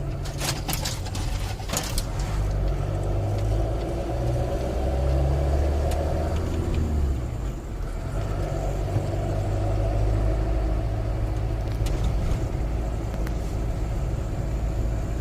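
Engine and road noise of a moving vehicle heard from inside the cabin: a steady low drone whose pitch shifts about seven seconds in, with a few light clicks near the start.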